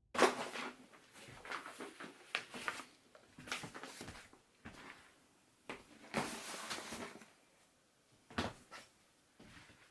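Handling sounds: a run of irregular rustles, clicks and knocks, the loudest about six seconds in and a sharp knock near the end.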